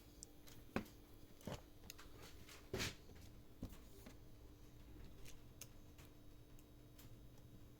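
A few faint clicks and taps of small tools and parts being handled during a phone battery-connector repair, the loudest a short scrape about three seconds in, over a faint steady hum.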